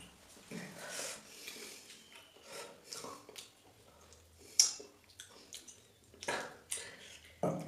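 A person eating noisily: irregular chewing and wet mouth sounds, with a sharp smack about four and a half seconds in.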